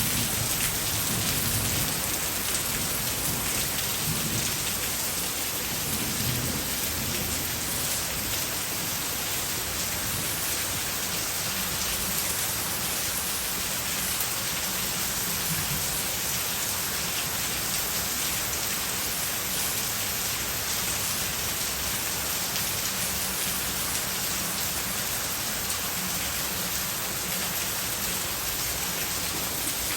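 Heavy tropical rain pouring down, a dense, steady hiss, with a low rumble during the first several seconds.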